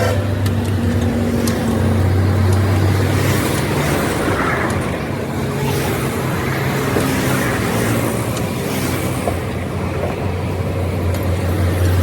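A motor vehicle engine running steadily, with a low hum that fades in the middle and comes back strongly near the end. A few sharp clicks are heard near the start.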